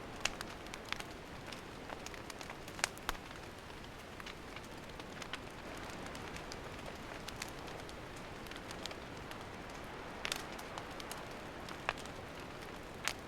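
Wood campfire crackling: a steady hiss with scattered sharp pops, the strongest about three seconds in, again near ten seconds and just before the end.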